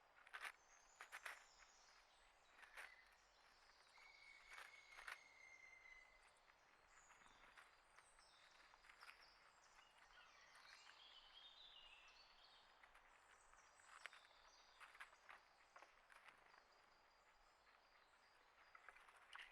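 Faint outdoor ambience with scattered bird chirps and calls: a short held whistle a few seconds in, and a falling warble about halfway through, among sharp clicks and taps.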